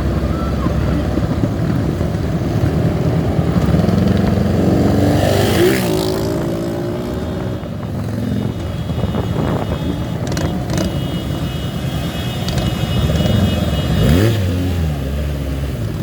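Motorcycle engines running in a large group ride, a continuous engine drone. Engines rev up about five seconds in and again near the end.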